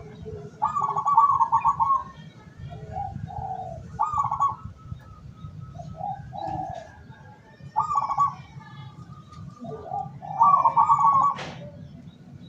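Zebra doves (perkutut) cooing: four loud, rapid trilled coo phrases roughly every three seconds, with softer, lower coos in between.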